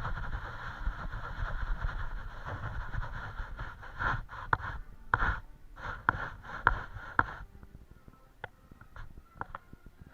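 Paintbrush scrubbing and scraping across a painting surface in bursts, with sharp taps and ticks. The scrubbing stops about three-quarters of the way through, leaving only scattered clicks.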